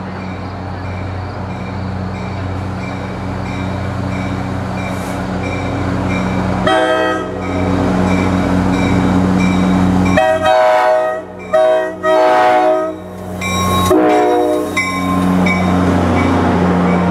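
Metro-North diesel passenger train approaching and pulling into the station, its engine droning low and steady. Its multi-chime K5LA air horn sounds briefly, then blows a series of long and short blasts a few seconds later as the train draws near. A bell dings steadily about twice a second throughout.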